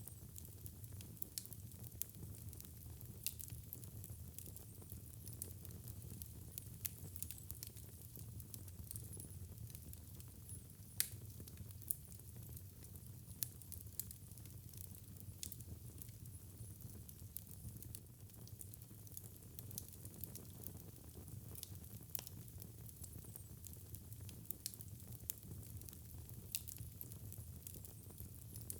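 Wood fire in a fireplace crackling: faint, irregular sharp pops and snaps over a low, steady rumble of burning, with one louder pop about eleven seconds in.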